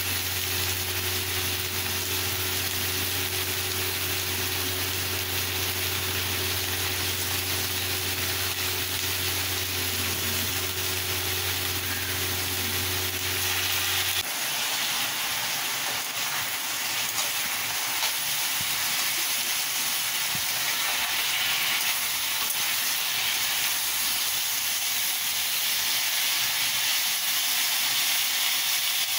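Chopped flat beans sizzling and hissing steadily as they fry in a pan. A steady low hum sounds along with it and stops abruptly about halfway through.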